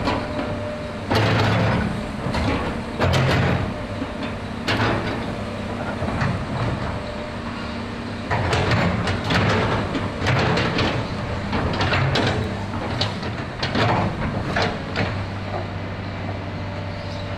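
Komatsu PC200 hydraulic excavator's diesel engine running steadily, with loud irregular bursts of hydraulic and mechanical working noise every second or two as the machine operates.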